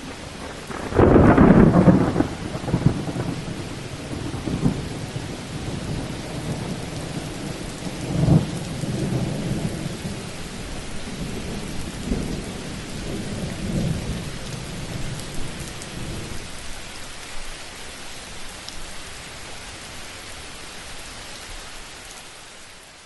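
Thunderstorm: a loud clap of thunder about a second in, then rolling rumbles that swell and die away over the next fifteen seconds, over steady rain.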